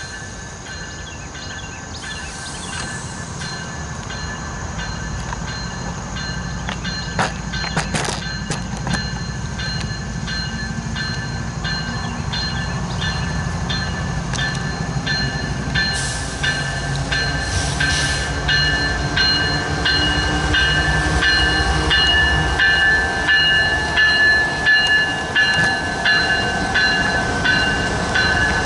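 A train approaching and growing steadily louder: engine and wheel rumble under a bell ringing in even, regular strokes.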